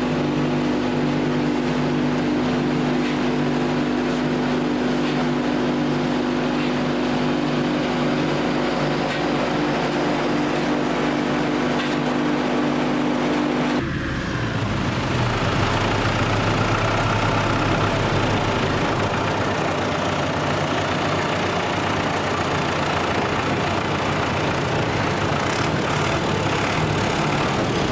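Heavy machinery running steadily with a constant hum. About halfway through it changes abruptly to a different, noisier machine hum.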